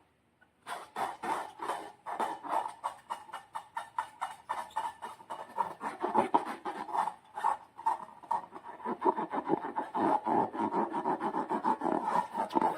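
Slime being squished and worked by hand, giving a dense run of quick, irregular sticky crackles and clicks that starts about half a second in.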